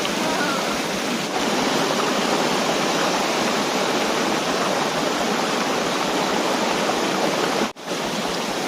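Waterfall water rushing steadily over rock tiers, broken by a sudden momentary dropout about three-quarters of the way through.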